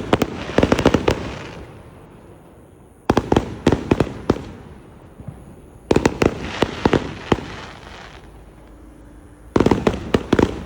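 Fireworks going off: four volleys of rapid sharp pops and crackles, each lasting about a second and a half, coming roughly every three seconds.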